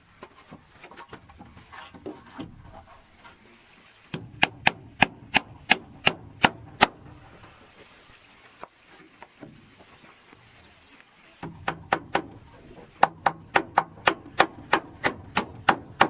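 Hammer blows in two runs of sharp, evenly spaced strikes, about three a second: a run of about nine around four seconds in, and a longer run of about fifteen starting past the eleven-second mark.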